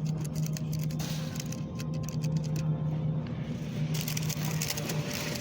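Steady low hum of a supermarket's refrigerated meat case, with irregular crackling and scraping as plastic-wrapped meat packages are handled.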